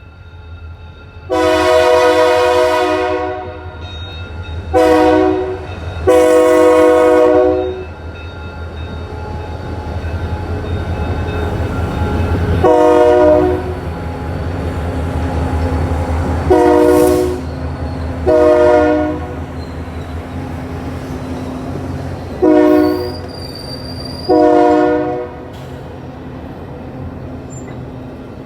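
Diesel locomotive air horn sounding a series of blasts for a grade crossing: a long blast, a short one, and another long one, then five shorter blasts spread over the rest of the time. Underneath, the locomotive's engine and the train run as a steady low rumble that grows louder toward the middle as the train nears.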